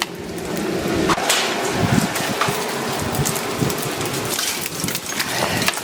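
A steady rushing haze dotted with many small crackles and ticks, from a fire pit burning cardboard and melting ice dripping and falling from the trees above it.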